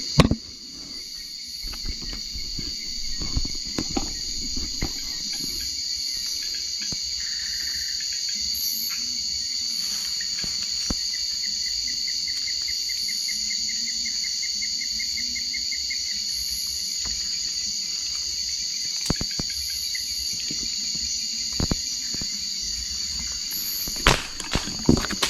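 Steady chorus of night insects, crickets, chirring high and unbroken, with a faster pulsed trill in the middle. A few sharp clicks or knocks stand out, the loudest near the end.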